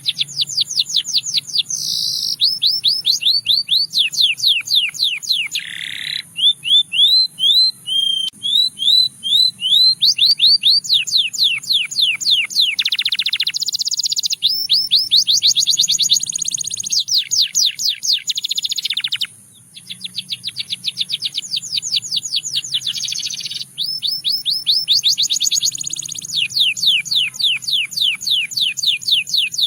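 Canary of the Russian singing type singing a long, continuous song of fast trills, repeating one note many times before switching to another every second or two. There is a brief break about two-thirds of the way through.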